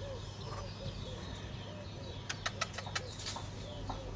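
Birds calling: a low cooing note, rising and falling, repeated about three times a second, with thin higher chirps from small birds over a steady low hum. A cluster of sharp clicks comes a little after two seconds in.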